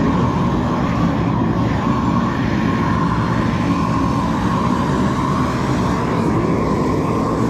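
Propane flamethrower torch burning with a loud, steady rush and an even tone, heating frozen concrete to thaw and dry it.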